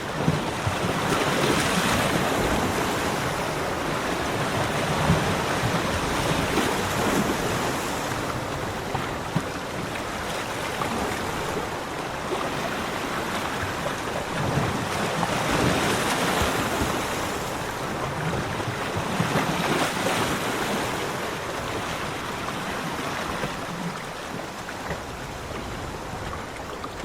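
Ocean waves breaking on a beach and washing back, a continuous rush of surf that swells and ebbs, loudest about two seconds in and again twice past the middle.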